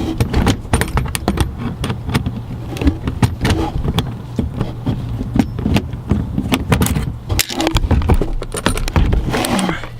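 Hand tools working the last mud flap's metal fasteners loose: a long run of small metallic clicks and clinks, irregular and closely spaced, over a steady low hum.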